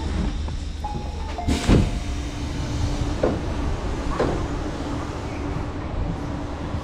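Tobu Line commuter train standing at a station platform: a steady low rumble, with a loud knock about a second and a half in, two lighter knocks a little later, and a steady hum coming in partway through.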